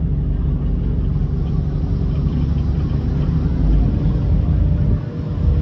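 Steady low rumble of a ferry underway, its engine running as it crosses the canal, with a brief dip in level about five seconds in.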